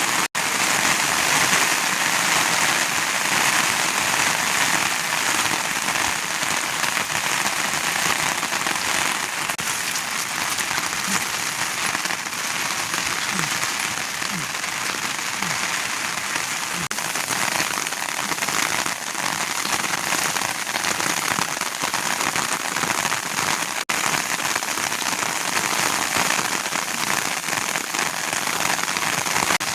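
Steady rain falling, an even hiss throughout, with two instant breaks, one just after the start and one about 24 seconds in.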